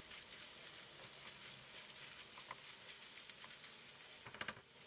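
Faint sizzling of chopped green peppers, onions and minced meat frying in a pan, with a few light clicks of a wooden spoon stirring against the pan about four seconds in.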